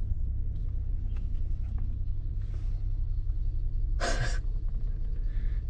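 Steady low rumble of a car's engine and road noise heard inside the cabin while driving, with a brief breathy hiss about four seconds in.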